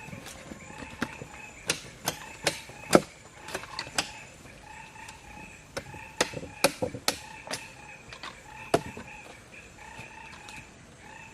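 A series of sharp knocks and clicks at irregular spacing, the loudest about three seconds in. Behind them runs a steady background of short, repeated animal calls at two pitches.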